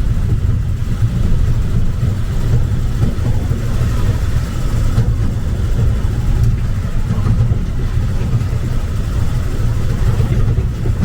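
Steady low rumble of the little train's engine and running gear, heard from a passenger seat on board.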